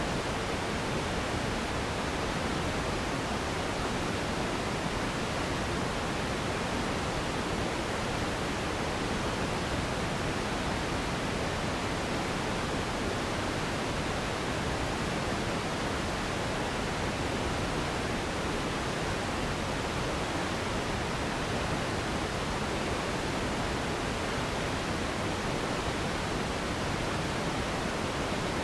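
Steady relaxation noise for sleep: an even, unbroken hiss-like rush spread across low and high pitches, with no changes in level or character.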